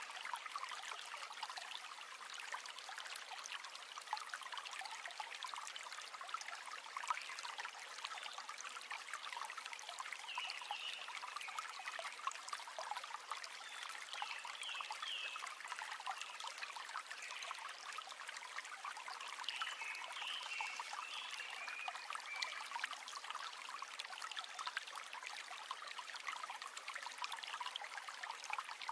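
River water flowing and trickling over stones: a steady, bright splashing hiss with no low rumble. A few faint high chirps come and go around the middle.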